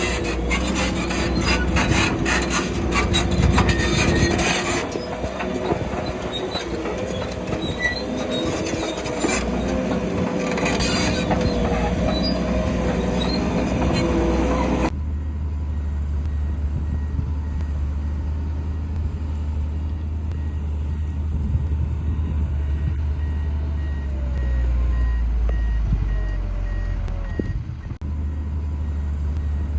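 Heavy earthmoving machinery at work: a diesel engine running under load with much clanking and scraping, then an abrupt change about halfway to a low, steady engine rumble with a faint repeated beep, like a reversing alarm.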